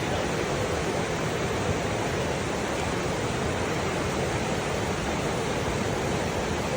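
Flash-flood water rushing steadily, a continuous even noise with no breaks.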